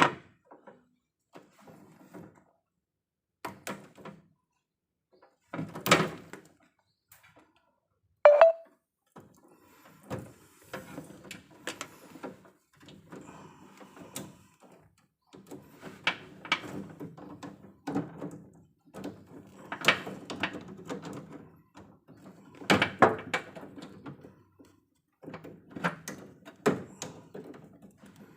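Irregular knocks, clunks and rustling from hands-on work, coming in uneven bursts with short pauses, and one brief squeak about eight seconds in.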